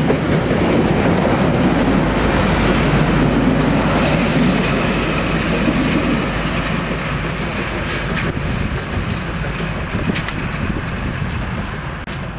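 Passenger carriages of a steam-hauled excursion train rolling past close by, wheels rumbling on the rails with a few sharp clicks over the track. The sound fades steadily from about halfway through as the last carriage goes by.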